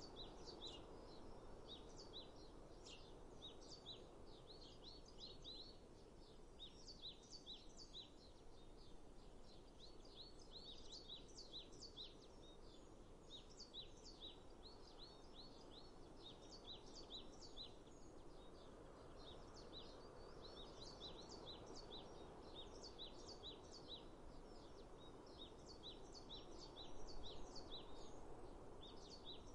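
Faint birdsong: small birds chirping in quick clusters of short, high calls that recur every few seconds, over a soft, steady background noise.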